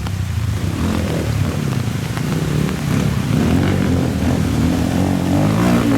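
Motorcycle engine running as the bike rides off, getting louder and rising slightly in pitch as it picks up revs.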